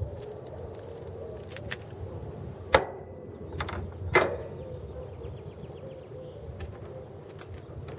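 A few sharp clicks and knocks of metal parts and tools being handled. The loudest comes a little under three seconds in and another about a second and a half later.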